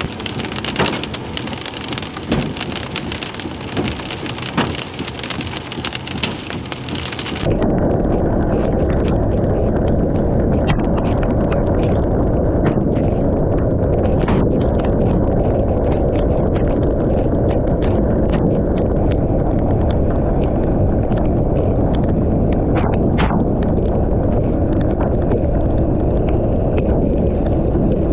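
Hail and heavy rain pounding on a vehicle, with many sharp impacts of hailstones through a steady hiss. About seven seconds in the sound changes abruptly to a louder, muffled roar with occasional hard knocks.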